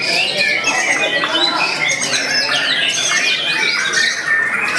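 White-rumped shama singing at close range: an unbroken, rapid run of loud whistles, chattering notes and quick sliding phrases.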